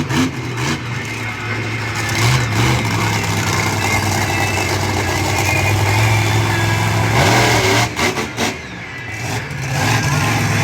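Monster truck engine running loud and revving, its pitch rising and falling, with a brief drop in loudness about eight seconds in.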